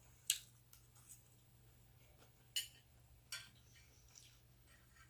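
Faint eating sounds: a fork clicking against a plate, three short sharp clicks, one just after the start and two more past the middle, over a faint steady hum.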